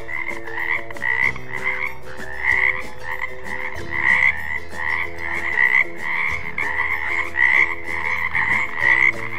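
A frog croaking over and over in short, evenly repeated calls, about two a second.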